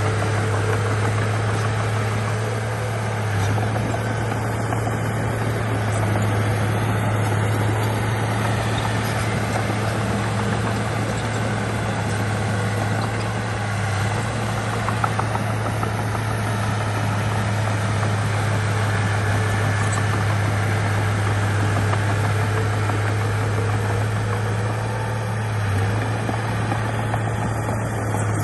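Bulldozer's diesel engine running steadily, with a strong, even low hum.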